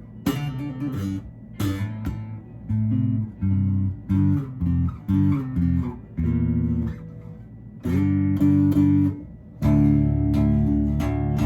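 Electric bass guitar played solo through an amp: a run of short plucked notes with sharp attacks, then several notes ringing together near the end.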